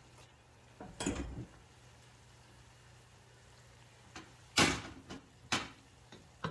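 Three short knocks and clatters of cookware, with the loudest about four and a half seconds in.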